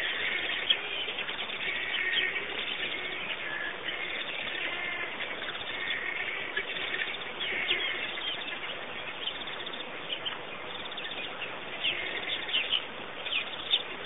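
A chorus of small birds chirping and trilling, many short calls overlapping over a steady background hiss.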